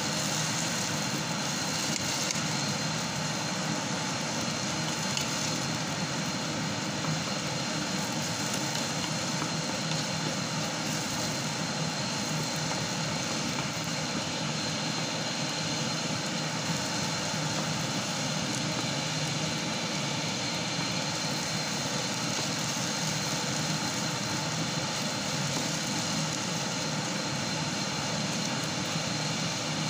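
Air fryer running, its fan giving a steady whooshing whir with a faint high-pitched tone over it.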